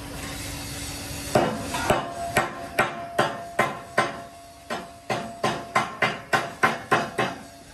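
A hammer striking metal over and over at a steady pace of about two to three blows a second, with a short ring after each blow. The strikes begin about a second and a half in.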